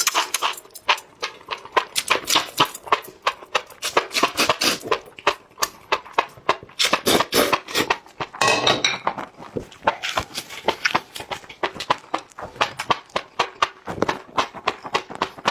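Close-up eating sounds: a mouth chewing food, making a rapid, uneven stream of wet clicks and smacks.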